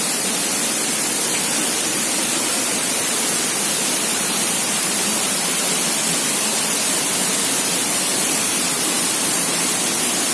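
Waterfall's rushing water: a steady, unbroken hiss of falling water with no change in level.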